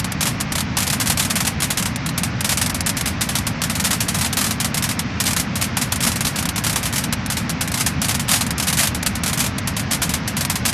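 Wood fire burning in a fireplace, crackling and popping in dense, rapid, irregular crackles over a steady low rumble.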